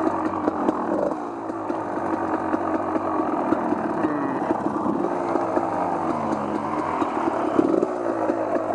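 Off-road vehicle engine running at changing speed, its pitch wavering, dipping about six seconds in and rising again near the end, with small clicks and clatter over it.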